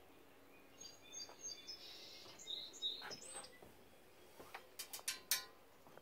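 Birds chirping: a quick run of short, high calls through the first half. Then, from about four and a half seconds in, a handful of sharp clicks or knocks, the loudest sounds here.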